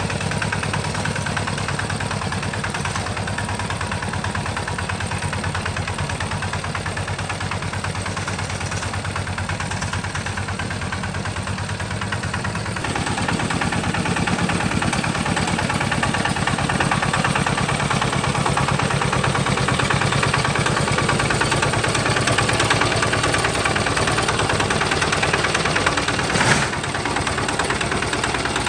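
Homemade tractor's engine running steadily with a fast, even beat. About halfway through it gets louder, and there is one brief knock near the end.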